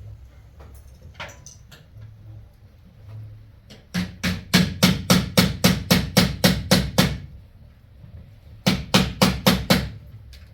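Rapid hammer blows, about five a second: a run of roughly fifteen strikes, a short pause, then a second run of about six.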